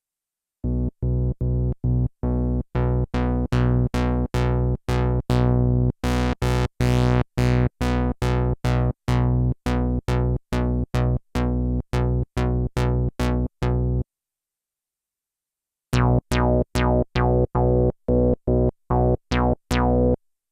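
Sequential analog polyphonic synthesizer playing a run of short, detached notes, about two to three a second, each stopping cleanly. A few notes near the middle ring longer and brighter, and the playing pauses for about two seconds in the second half before the notes resume.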